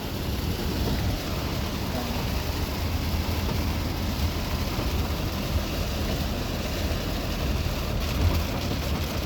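Steady rumble of a car driving through heavy storm rain, heard from inside the cabin, with the rain hissing on the car and road.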